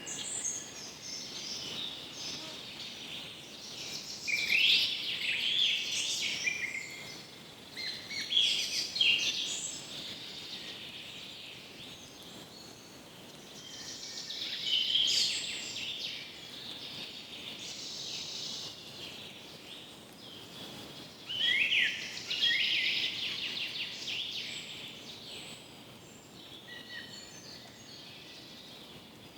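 Birds singing and calling in bouts of quick, high chirps and trills, with pauses between, over a steady faint hiss of background ambience.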